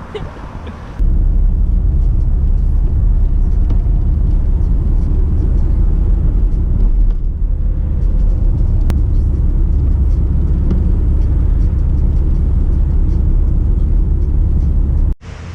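Steady low road rumble of a car driving, starting abruptly about a second in and cutting off suddenly near the end.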